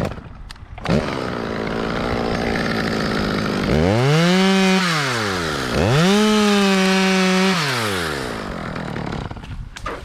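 Two-stroke chainsaw running steadily at high speed from about a second in, then revved to full throttle twice, each rev climbing, holding briefly and dying back down.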